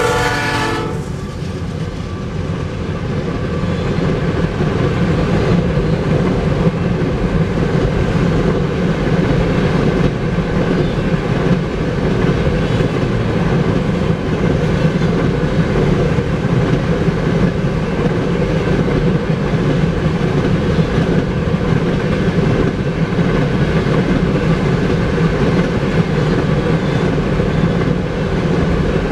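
The lead GE ES44C4 locomotive's horn sounds for the grade crossing as the locomotives pass and cuts off about a second in. After it, a long string of empty tank cars rolls by steadily, with a continuous wheel-on-rail rumble and clatter.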